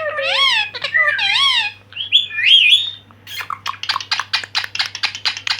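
Pet parrot calling: warbling whistled calls that waver up and down in pitch, then, about three seconds in, a fast run of short sharp chirps or clicks at about eight a second.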